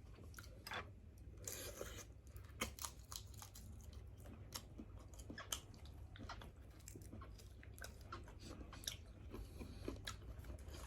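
Close-up eating sounds of grilled seafood: chewing and crunching, with many small irregular clicks and crackles, over a low steady hum.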